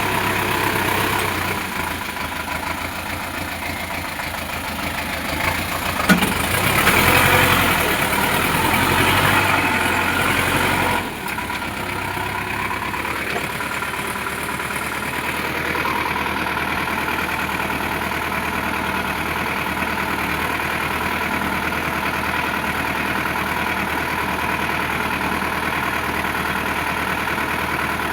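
Tractor diesel engine running. It grows louder for a few seconds, with a sharp knock about six seconds in, then drops suddenly to an even, steady run for the rest.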